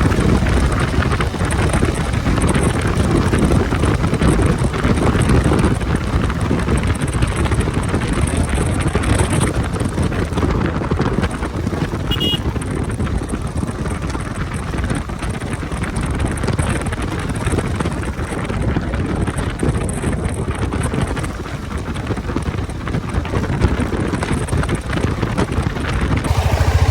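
Steady wind rushing over the microphone of a moving vehicle, with the vehicle's running noise underneath. Near the end the wind rush falls away and a steady low engine hum remains.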